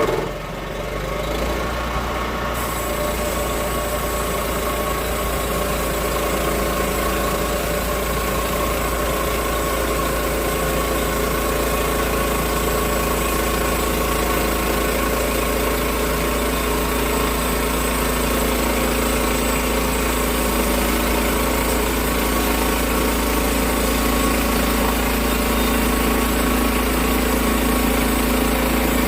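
Portable sawmill's engine running steadily at a constant speed, after a brief surge right at the start.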